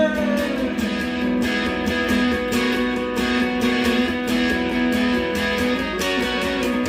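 Guitar strumming chords in a steady rhythm, an instrumental break between sung verses.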